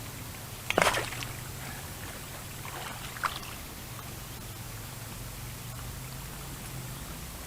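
A short splash of water about a second in and a fainter one around three seconds in, over steady flowing-water noise with a low hum.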